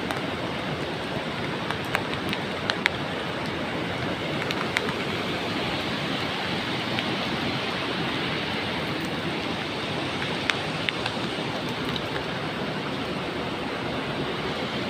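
Beas River rushing: a steady, even roar of fast-flowing water, with a few short sharp clicks through it.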